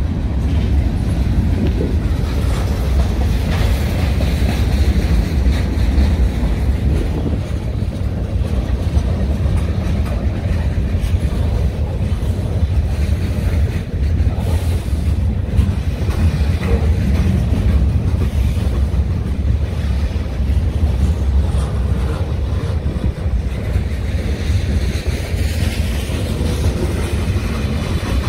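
A train rolling past on the tracks: a steady, loud low rumble of wheels on rail that holds throughout.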